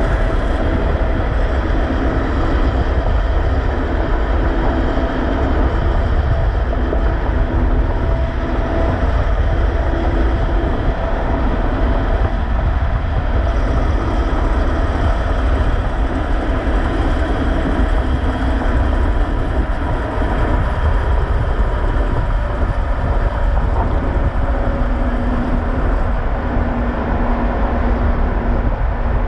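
Steady low rumble of heavy road traffic, with big trucks running past.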